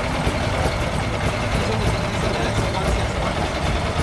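Avinton motorcycle's V-twin engine idling with a steady, fast low pulse.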